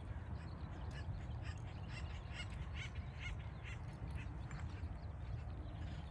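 A bird calling in a quick run of short notes, about three a second, from about one second in until about four seconds in, over a steady low rumble.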